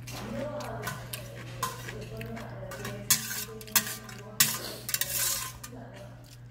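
Utensils clinking and scraping against a bowl of cold buckwheat noodles while eating, with three sharp clinks in the middle.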